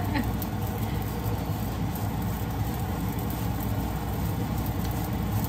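Steady low hum under an even, light hiss, from chapatis frying in pans on a stovetop.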